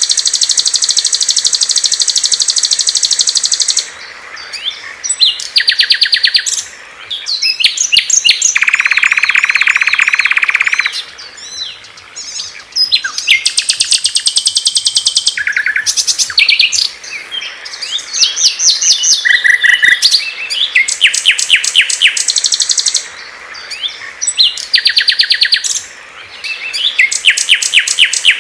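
Songs of several small songbirds, one after another and sometimes overlapping: fast high-pitched trills and runs of repeated chirps, with a lower, dense trill from about 8 to 11 seconds in.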